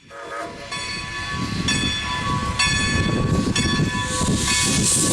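Steam locomotive whistle of Strasburg Rail Road's 2-10-0 #90 sounding a series of blasts, about four of under a second each and then shorter toots, over the low rumble of the working engine. A loud steam hiss builds near the end.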